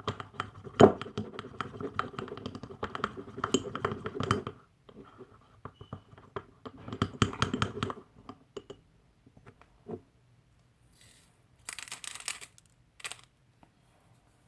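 Spoon stirring thick dish soap and salt in a bowl, scraping and clicking rapidly in two spells, then a few scattered taps and a short rustle near the end.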